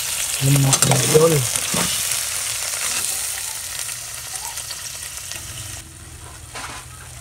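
Swimming crabs sizzling in a hot pot on a stove as they are stirred with a metal spoon, the hiss slowly dying down. A short murmur of a voice comes about a second in.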